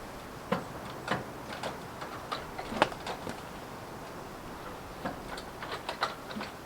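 Irregular light clicks and knocks, a dozen or so, clustered in the first three seconds and again about five to six seconds in.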